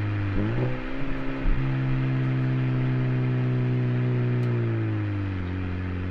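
Hyundai Genesis Coupe Turbo's turbocharged four-cylinder running through an aftermarket cat-back exhaust. The note wavers briefly about half a second in, holds at a steady pitch, then sinks slowly near the end.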